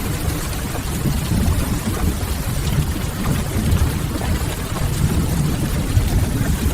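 Steady rain ambience with a deep low rumble underneath and a fainter hiss above, with no separate drops or crackles standing out.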